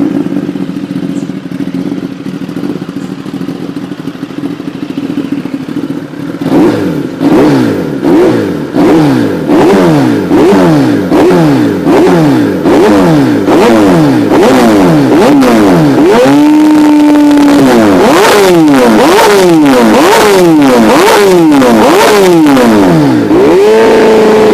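2017 Kawasaki ZX-10R's inline-four with an Austin Racing exhaust, idling steadily at first. It is then revved in quick, repeated throttle blips, each rising and falling back, about one a second. It is briefly held at higher revs once in the middle and again near the end.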